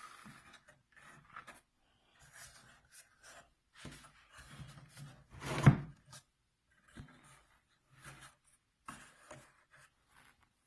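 Scattered light scraping and rubbing of wooden workpieces being handled, with one louder knock a little over halfway through.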